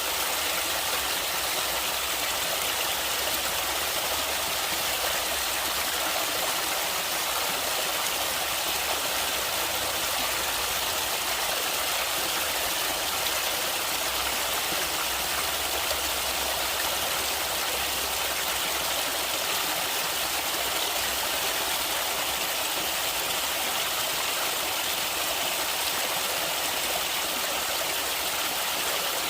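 Stream water flowing steadily, an even, unbroken rush with no pauses or changes.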